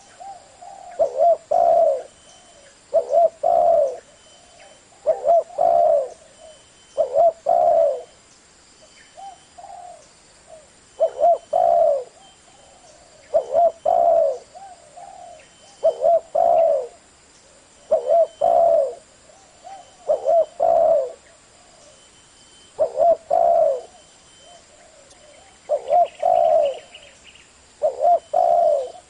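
Spotted dove (chim cu gáy) cooing in the deep 'thổ' voice, repeating short phrases of two or three coos about every two seconds. It is a lure call of the kind used to rouse wild spotted doves into answering.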